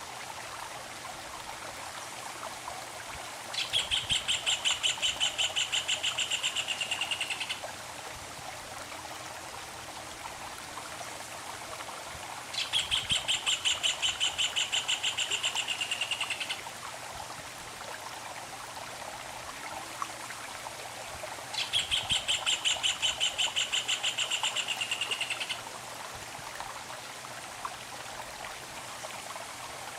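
A songbird sings a fast trill of evenly repeated notes lasting about four seconds, three times about nine seconds apart, over the steady rush of a running stream.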